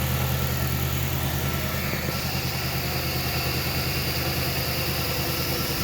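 Supercharged Audi S5 4.2 V8 (Eaton M90 blower kit) idling steadily with an even low pulse.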